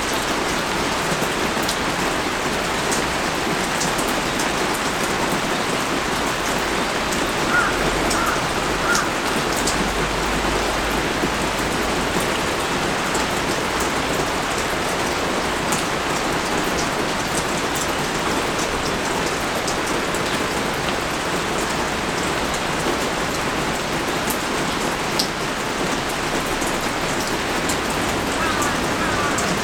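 Heavy rain pouring steadily, with scattered drops ticking close by.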